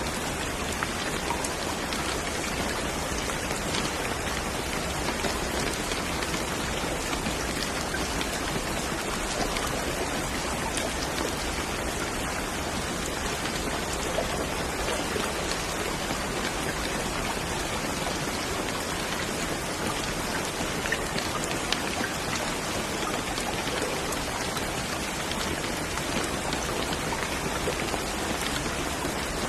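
Steady rain with individual drops ticking on a surface, an even unbroken hiss.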